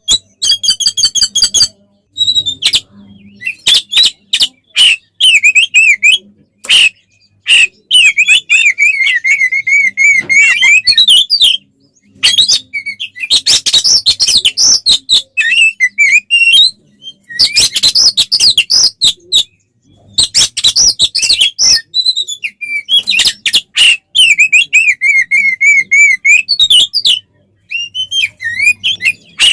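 Oriental magpie-robin (kacer) singing loudly in fighting mode: a varied song of fast, wavering whistled trills and clear notes, broken up by harsh, rasping chatter, with a few short pauses between phrases.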